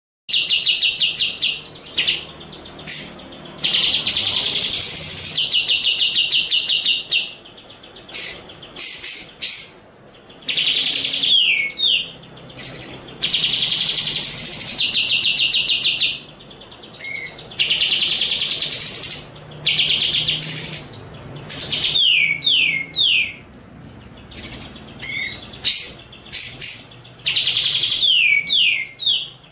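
A songbird singing clear, loud phrases: long rapid trills alternating with quick runs of down-slurred whistles, with short pauses between phrases.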